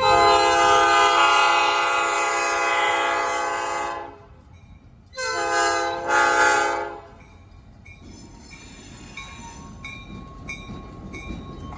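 Diesel freight locomotive's air horn approaching: one long blast of about four seconds, then after a short pause two shorter blasts back to back. A quieter train rumble follows.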